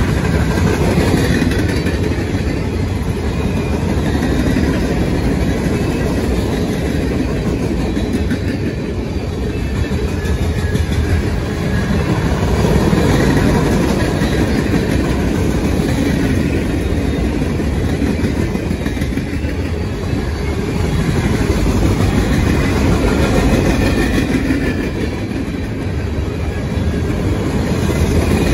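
A train's cars rolling past on the track: a continuous noise of wheels on rail, heaviest in the low end, that swells and eases slightly without stopping.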